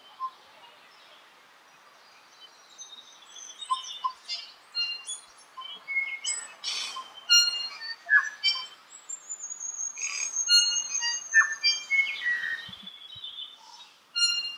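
Tui singing: a varied run of short bell-like notes, whistles, clicks and a falling whistle. The song is sparse at first, then busy from about three seconds in, and it thins near the end.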